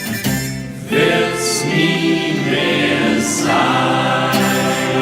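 1950s German schlager-style cowboy song: a vocal group sings sustained notes in close harmony over a steady accompaniment, in the song's closing bars.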